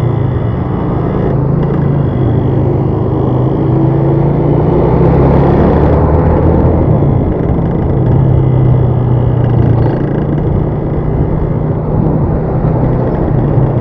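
Steady vehicle engine hum and road noise while travelling, with a faint rise in engine pitch around the middle.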